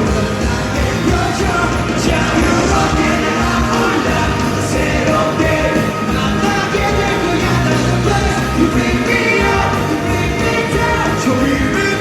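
Live rock band music with a lead vocal: drums, bass and guitars playing through the concert sound system.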